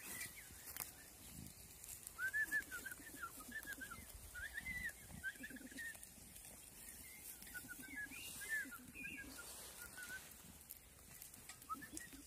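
A songbird singing faintly: runs of short, quick chirping notes from about two seconds in until near the end.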